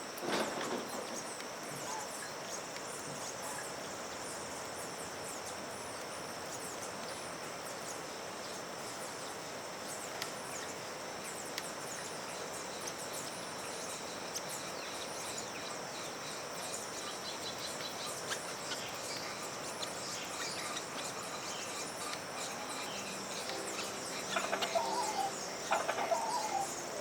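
Outdoor ambience of many small birds chirping over a steady high-pitched drone and background hiss, with louder pitched calls in the last few seconds.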